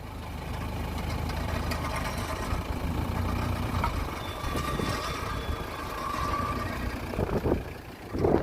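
Nissan Terrano engine running at low revs as the SUV creeps up onto a trailer, steady after a rise about half a second in.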